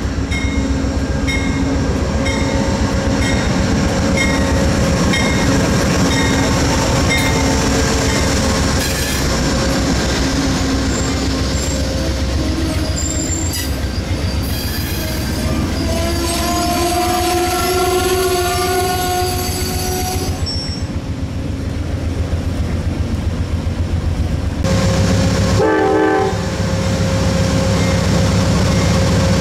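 Train at a station: a bell ringing steadily about every two-thirds of a second for the first several seconds, the wheels squealing on the rails in the middle, then a short pitched blast and a diesel engine running with a steady low hum near the end.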